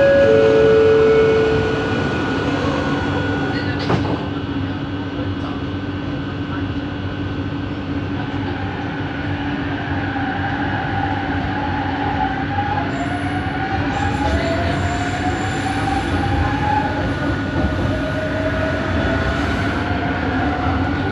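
Heard from inside the carriage, the rumble of an original Kelana Jaya Line train (Bombardier ART Mark II, driven by linear induction motors) with its traction motors whining. A pair of strong steady tones fades about a second and a half in. A steady hum runs under everything, and in the second half the motor whine rises in pitch in repeated upward glides, each one starting again higher. This is the 'weird motor noise' of the original fleet.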